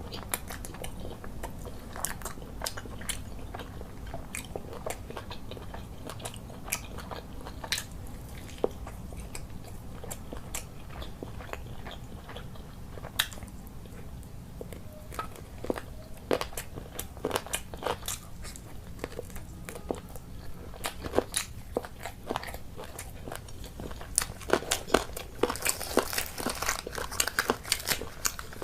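Close-miked eating: a person biting and chewing food, with many short wet mouth clicks and crunches that come thicker and louder near the end, over a steady low hum.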